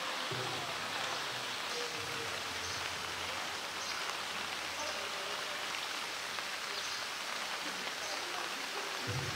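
Steady rain falling on wet concrete and the water of a pool.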